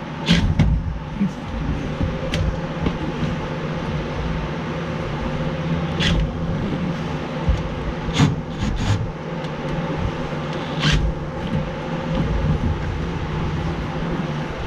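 Power drill running a 2 3/4-inch hole saw cutting into the bottom of a pickup's fuel tank for a sump, drilled without its pilot bit. The drill runs steadily, with a few sharp knocks as the saw catches.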